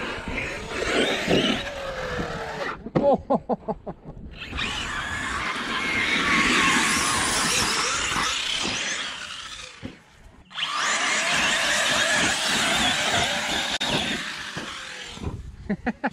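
Electric RC monster trucks (Traxxas X-Maxx 8S and Arrma Kraton 6S) running under throttle, their brushless motors whining and rising and falling in pitch. It is rough and noisy, with quick pulsing about three seconds in and brief lulls about four and ten seconds in.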